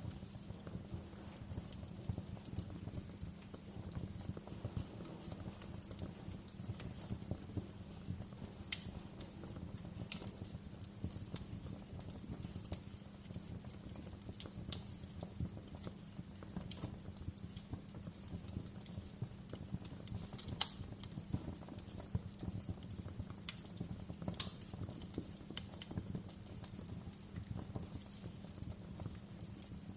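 Wood fire crackling in a fireplace: a dense run of small crackles over a low steady rumble, with a few louder, sharper pops scattered through.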